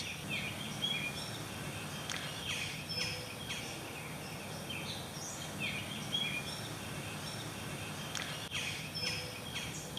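Birds giving short, scattered chirps and calls over a steady low background noise.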